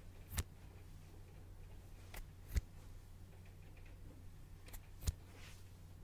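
Close-miked ASMR trigger sounds: about five sharp, short clicks or snips, spaced unevenly and loosely in pairs, over a steady low hum.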